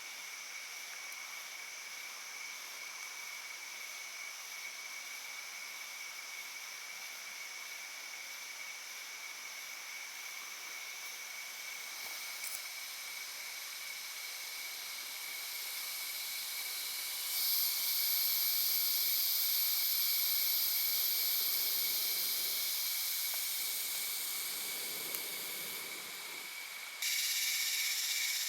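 Forest insects buzzing and shrilling in a steady high chorus, with a louder, higher insect call swelling in about two-thirds of the way through and stopping abruptly, then a pulsing call starting near the end.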